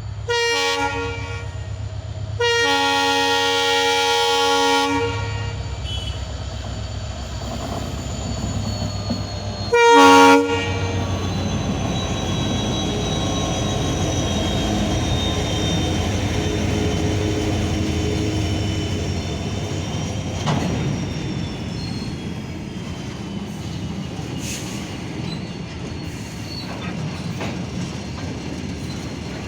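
Indian Railways train sounding its horn three times: a short blast, a longer one of about two and a half seconds, then a short, loudest blast about ten seconds in. It then runs past with a steady rumble and high wheel squeal that slowly eases off.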